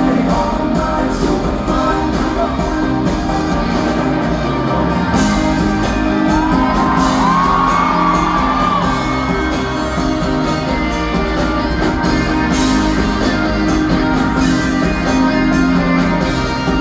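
Live pop band playing loud through a hall's sound system, with singing and shouts and whoops from the crowd; a sliding high line is heard for a few seconds in the middle.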